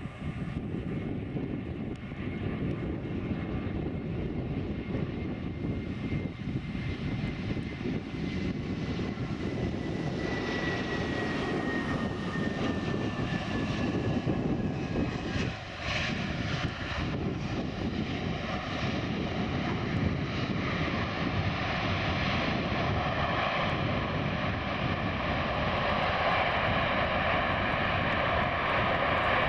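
IAE V2500 turbofans of a United Airbus A320-232 airliner on landing, a steady rumbling jet roar with a high fan whine that slides down in pitch about a third of the way in. The noise grows louder toward the end.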